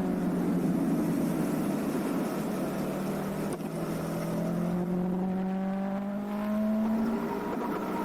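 Motorcycle engine running at fairly steady revs, its pitch climbing slowly and then dropping back about seven seconds in.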